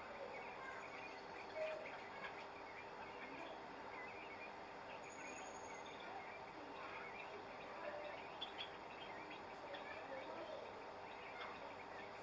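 Faint ambience of many small scattered chirps, bird calls over a steady low hum.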